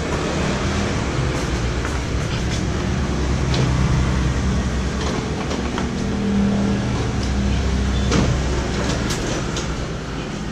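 Canon imageRUNNER Advance office photocopier running a copy job: a steady mechanical whir and hum with repeated short clicks.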